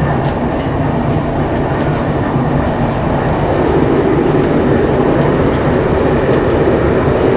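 A train running along the track, a steady rumble with a few faint clicks from the wheels.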